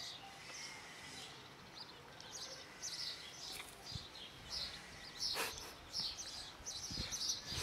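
Small birds chirping in quick repeated high notes, with one short sharp sound about five seconds in.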